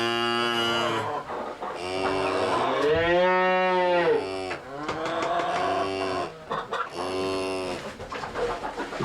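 Cattle mooing: a run of about five separate moos with short gaps between them. The loudest comes about three seconds in, a long call whose pitch rises and then falls.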